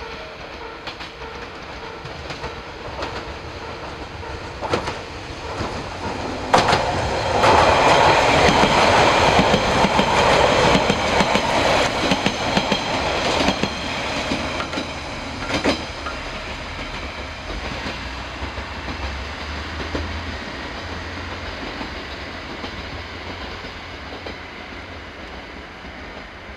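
Noto Railway NT100-series diesel railcars running past, getting louder over the first few seconds. The wheels clatter with sharp clicks over rail joints as the cars go by, loudest about a third of the way in, then the sound fades to a low rumble.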